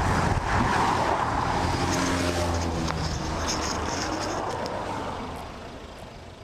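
Pickup truck's engine idling with a steady low hum while a car passes on the road in the first couple of seconds. The sound fades away over the last few seconds.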